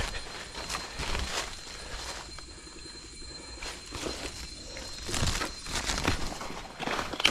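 Footsteps crunching through leaf litter and twigs on a jungle trail, at an irregular pace, with a quieter gap about two to four seconds in.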